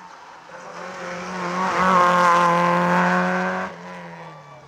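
Rally car engine held at high revs on a steady note, growing louder as the car comes up the hill, then cutting off suddenly near the end.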